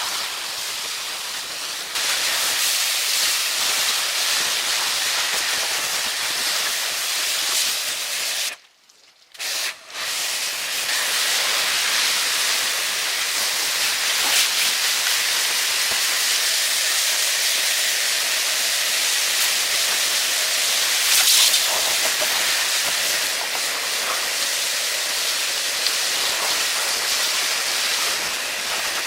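A steady, loud hiss, like a jet of air or spray, broken once by a short silence partway through.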